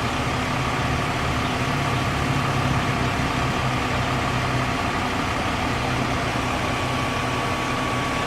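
Fire truck engine idling steadily, a low even hum with a thin steady whine above it.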